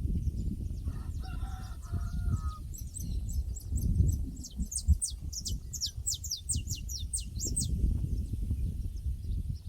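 Pasture ambience over a low rumbling background: a rooster crows once, faintly, about a second in. From about three seconds in, a small bird sings a quick run of high, downward-sweeping notes for about five seconds.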